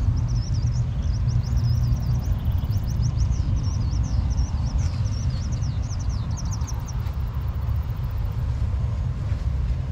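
A small bird sings a quick run of high, warbling chirps that stops about seven seconds in. Under it runs a steady low rumble, the loudest sound throughout.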